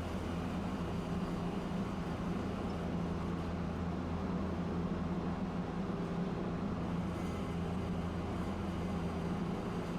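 Tosaden streetcar running, a steady low hum with noise of the wheels on the rails.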